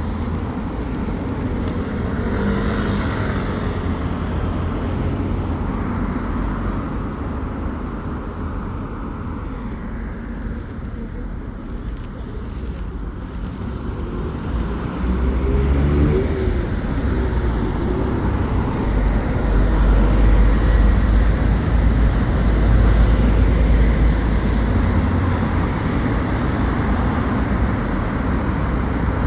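Road traffic passing on a street: engines and tyres in a continuous rumble. The rumble swells about halfway through and again in the second half as heavier vehicles go by.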